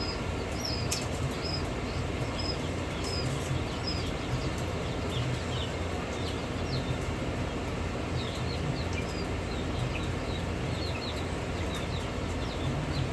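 Young chick peeping over and over in short, high cheeps, over a steady low hum.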